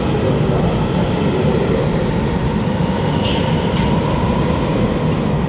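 Taiwan Railway express electric multiple-unit train pulling out past the platform in an underground station: a steady rumble of motors and wheels, with a faint steady whine.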